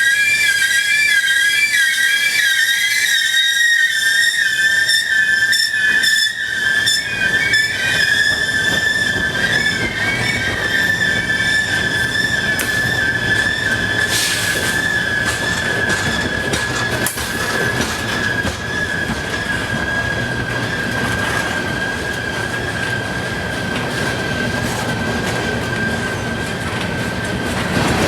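Freight train rolling past, its wheels squealing: one high, sustained whine that wavers for the first few seconds and then holds steady, over the low rumble of the passing cars.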